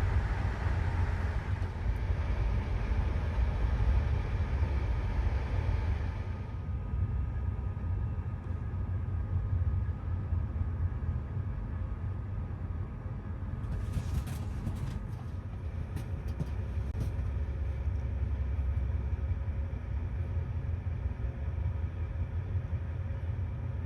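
Passenger train running, a steady low rumble, with a few sharp clicks about halfway through.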